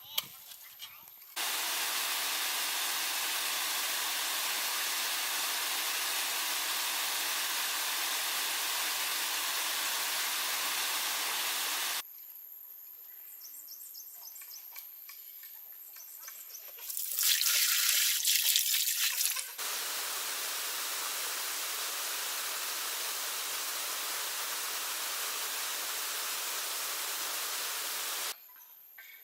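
Steady rushing water, an even hiss, in two long stretches that start and stop abruptly, with a shorter, louder rush about two-thirds of the way through.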